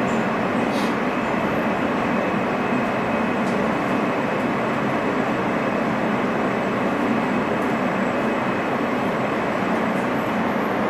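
R160 subway car in motion, heard from inside: steady running noise of wheels on rail, with a faint steady high whine over it.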